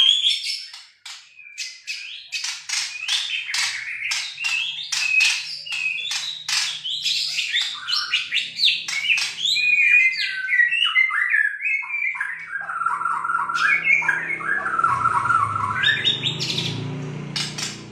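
Borneo white-rumped shama (murai batu) singing a long, varied song of rapid whistled phrases, chatters and sharp clicks. The bird is still learning its song. A faint low hum comes in near the end.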